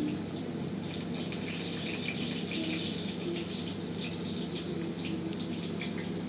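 Insects, crickets by the sound of it, trilling steadily in one continuous high-pitched drone.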